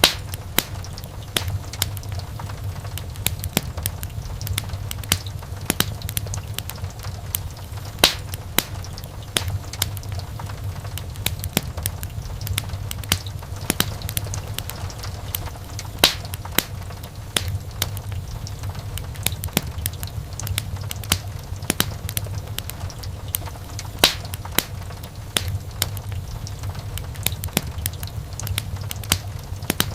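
Wood fire crackling in a fireplace: frequent small pops and ticks with a few louder sharp snaps about eight seconds apart, over a steady low rumble of the flames.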